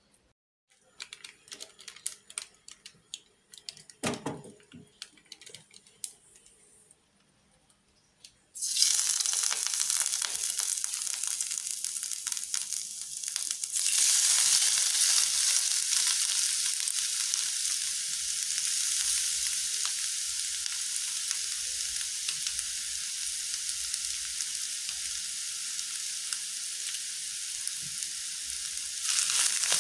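Bare hands squeezing and mixing chili-coated shredded mushrooms in a plastic bowl, with soft wet squelches and clicks. About a third of the way in, hot oil in a non-stick frying pan starts sizzling suddenly. The sizzle grows louder about halfway, when the mushrooms are dropped in to fry, and runs on steadily.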